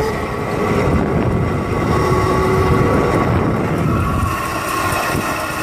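Electric motorcycle riding off and running, a steady motor whine over a rough rumbling noise.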